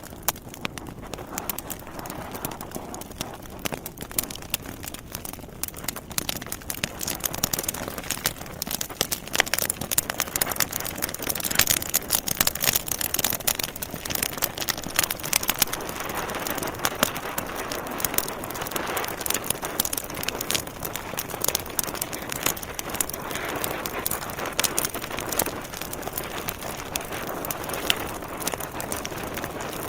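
Wood fire in a fireplace crackling, with dense irregular pops and snaps over a steady hiss, busiest about a third of the way in.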